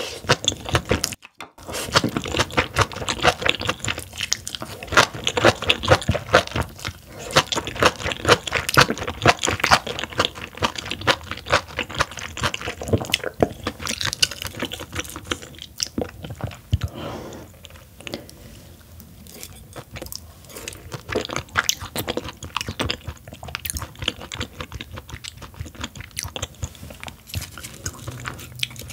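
Close-miked chewing of a mouthful of steamed yellow stingray with raw green stems: dense, crisp crunching for about the first half, then softer, sparser chewing.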